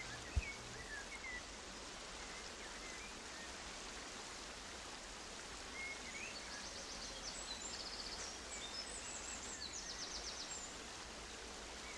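Faint aviary birds calling: a few short chirps, then quick runs of very high, rapid twittering from about halfway through. Underneath is a steady hiss like running water.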